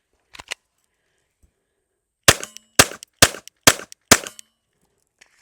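Glock 44 .22 LR pistol fired five times in steady succession, about two shots a second, each a sharp crack with a short ring. A faint double click of handling comes before the shots.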